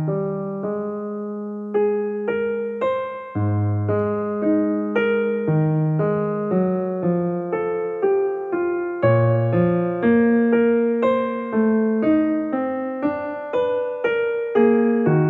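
Solo piano music: a steady run of struck notes, each fading after it is played, with low bass notes under a higher melody.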